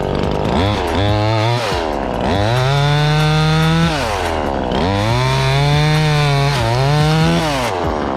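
Chainsaw engine just fired after being given some air, revved up and back down four times: a short blip about a second in, two long high revs, and a short one near the end.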